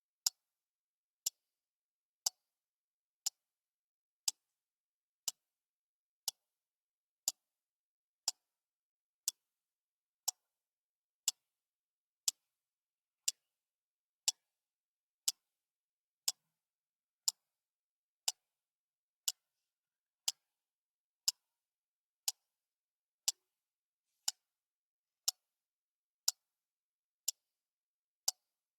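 Clock ticking steadily, one short, crisp tick about every second with silence between.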